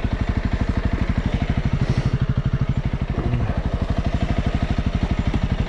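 Honda CRF300L's single-cylinder four-stroke engine idling steadily with an even, rapid beat.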